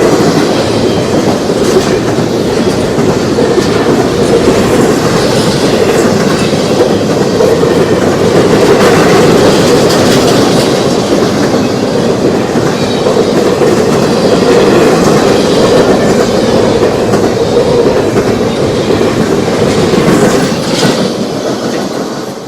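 Freight train cars rolling past, steel wheels clacking over rail joints over a steady rumble, with some wheel squeal. The sound drops away near the end.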